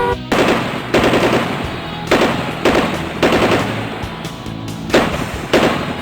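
A series of gunshots, about seven sharp cracks at irregular intervals, each with a short decaying tail, over background music.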